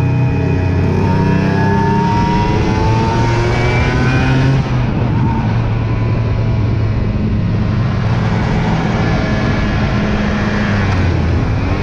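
Aprilia RS 125's two-stroke single-cylinder engine accelerating through the gears: its pitch climbs, drops at an upshift about five seconds in, then climbs again.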